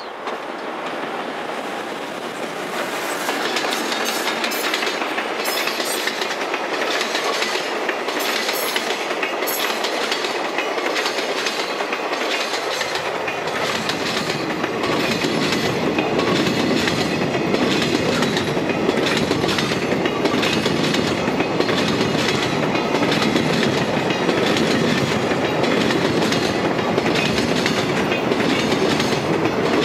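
A JR Freight container train hauled by an EF210 electric locomotive arrives and passes close by at speed, its wheels clattering in a steady rhythm over the rail joints. About halfway through, a deeper rumble from the container wagons sets in and continues.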